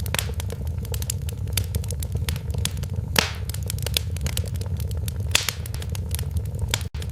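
Wood fire in a fireplace crackling, with frequent sharp pops over a steady low roar. One louder pop comes about three seconds in, and there is a momentary dropout near the end.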